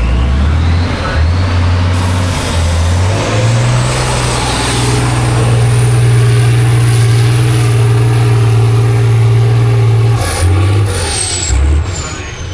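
Heavy truck-trial truck's diesel engine held at high revs under load, stepping up in pitch a few seconds in and easing off near the end, with a high whine falling away as it drops.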